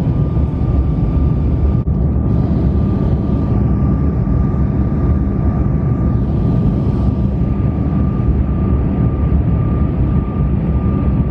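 Airliner cabin noise in flight: a loud, steady engine and air rumble with a steady high tone running through it.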